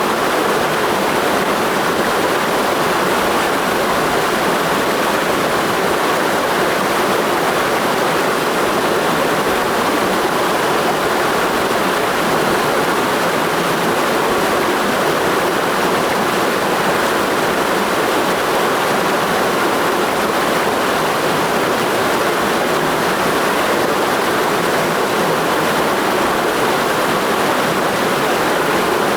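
Mountain stream rushing steadily, a dense even roar of flowing water that does not change.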